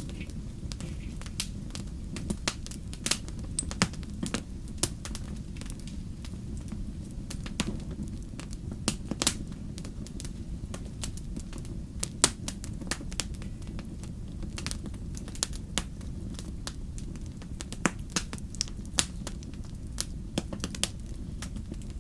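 Wood fire in a fireplace crackling: irregular sharp pops and snaps, a few much louder than the rest, over a steady low rumble of the flames.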